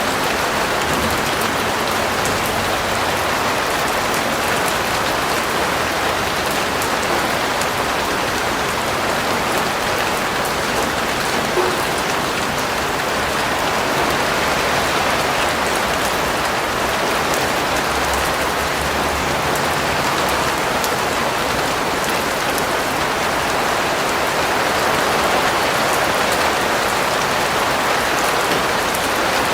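Steady rain falling, a dense even hiss with many fine drops pattering on surfaces.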